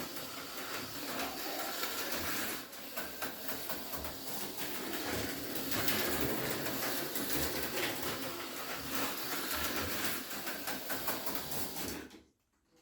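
HO-scale slot car running laps on plastic track: a continuous rattling buzz of its small electric motor and wheels. It stops abruptly near the end.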